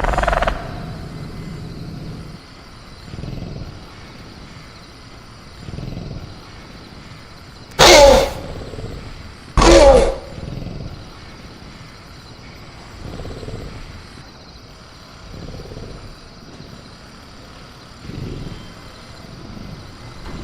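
Velociraptor sound-effect calls: two loud calls with a falling pitch, about a second and a half apart near the middle, over a steady jungle ambience with softer growls every couple of seconds.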